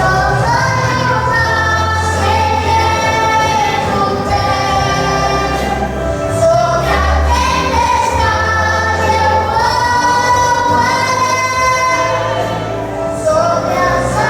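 A song with voices singing together in long held notes over an instrumental backing with a steady bass line, pausing between phrases about six seconds in and again near the end.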